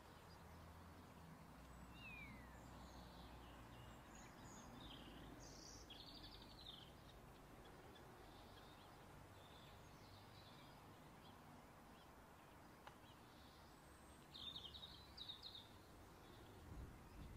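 Faint bird chirps over a quiet background hiss: a short falling call about two seconds in, a few chirps a little later, and a brighter cluster of chirps near the end.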